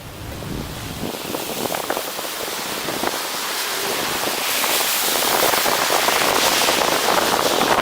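Tyres hissing and crackling over wet, slushy pavement, the road noise building steadily louder as the vehicle picks up speed.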